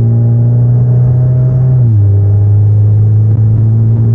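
2018 Camaro's 2.0-litre turbocharged four-cylinder, with cold air intake and muffler delete, pulling under acceleration with a loud low drone inside the cabin. About two seconds in its pitch drops in one step as the 8-speed automatic shifts up, then the drone carries on.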